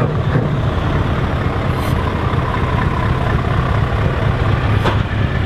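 Heavy truck diesel engines running with a steady low rumble, a brief high hiss about two seconds in and a short sharp sound near the end.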